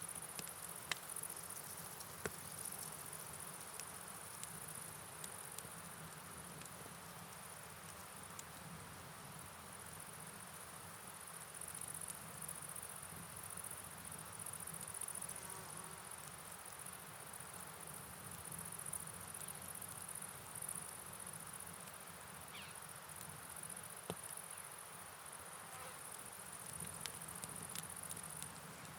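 A steady, high-pitched insect chorus over a soft, even hiss of rain and flowing river water, with scattered faint ticks.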